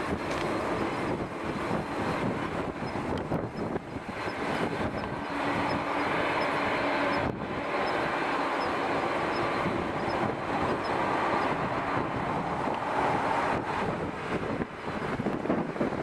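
Jet airliner engine noise, a steady rushing sound, mixed with strong wind buffeting the microphone.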